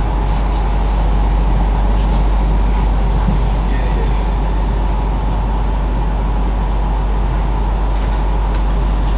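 Steady running rumble of a moving passenger train heard from inside the carriage: a continuous low, even roar of wheels on rail and car body, with no breaks.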